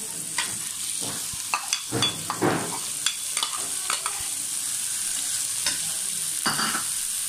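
Diced potatoes sizzling in hot oil in a metal wok, with a steady hiss. A steel slotted spoon scrapes and clinks against the pan in a run of sharp clicks during the first few seconds and once more near the end. Diced carrots are tipped in from a bowl partway through.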